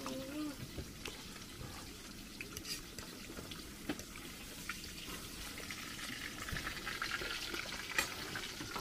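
Meat frying in oil on a round griddle pan over a gas burner: a steady sizzle with crackles, louder in the last few seconds, and a few light clicks.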